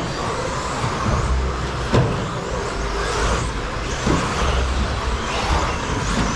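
Electric RC stadium trucks with 13.5-turn brushless motors racing on a carpet track: a steady running noise from the motors and tyres. A sharp knock comes about two seconds in and another about four seconds in.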